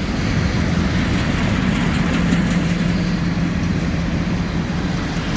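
Freight train rolling past: a steady rumble and rattle of wheels on rails, with a steady low diesel engine hum that grows stronger about two seconds in.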